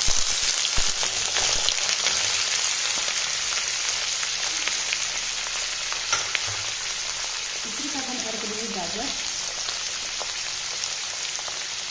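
Potato and pumpkin pieces sizzling in hot mustard oil in a kadai, with a few knocks as the pumpkin cubes drop in near the start. The sizzle is loudest at first and eases off slowly as the cold vegetables cool the oil.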